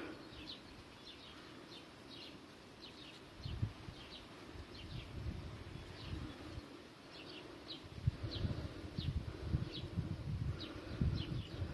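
Outdoor garden ambience: small birds chirping in short, repeated high notes over a faint steady buzz, with a low rumble on the microphone from about eight seconds in.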